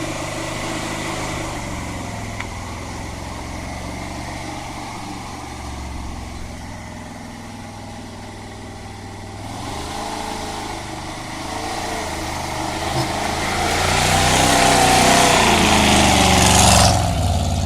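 GAZ-66 V8 engine of a homemade UAZ-based all-terrain vehicle running under load. The revs waver from about halfway, then build to their loudest near the end before dropping off suddenly.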